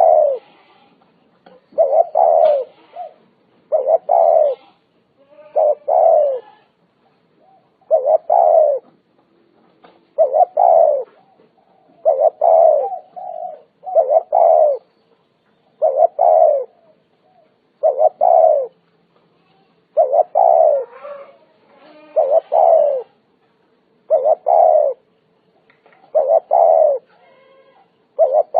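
Spotted dove cooing: its short coo phrase repeats about every two seconds, each phrase sliding down in pitch.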